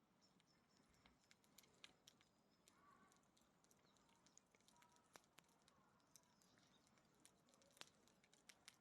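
Faint crackling of a wood bonfire burning scrap firewood: irregular sharp pops and snaps, a few a second, over a low hiss.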